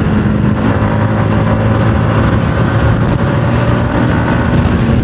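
Yamaha MT-15's single-cylinder motorcycle engine running at a steady speed while riding, with a heavy low rumble of wind on the helmet microphone.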